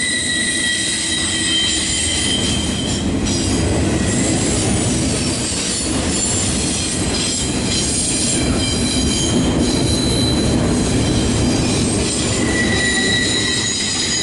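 Double-stack container well cars of a CSX intermodal freight train rolling past close by: a steady rumble of wheels on rail, with thin high-pitched wheel squeals coming and going.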